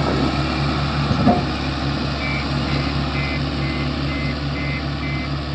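Heavy diesel engine running steadily with an even low pulse. About two seconds in, a reversing alarm starts beeping, short high beeps about two a second.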